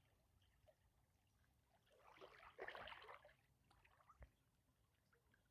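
Mostly near silence, with faint water splashing for about a second near the middle as a dog swims against a stream's current, then a single faint knock.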